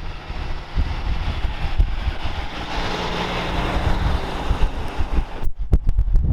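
A heavy truck driving past, its noise swelling around the middle, with wind buffeting the microphone throughout.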